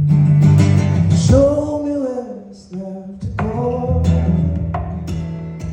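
Live music: a singer holding long notes over guitar and band accompaniment, with a short lull about two and a half seconds in.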